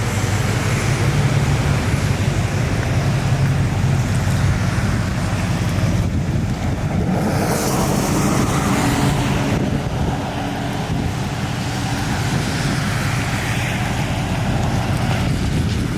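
A motor vehicle's engine running steadily under a continuous rushing noise, easing off slightly about two-thirds of the way through.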